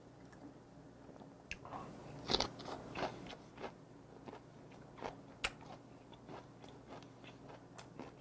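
A person chewing a young eomnamu shoot (gaedureup) dipped in red dipping sauce, picked up close by a clip-on microphone: irregular mouth clicks and crunches, the loudest about two and a half seconds in and again near five and a half seconds.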